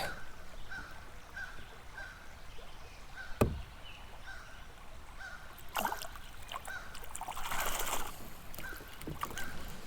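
A small pike being handled in a kayak: a sharp knock about three and a half seconds in, a scrape near six seconds, and a watery rush around eight seconds. Under it, a bird gives a short, high call about every half second.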